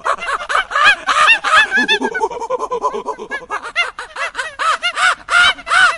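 A flock of poultry calling: many short calls that rise and fall in pitch, overlapping several a second.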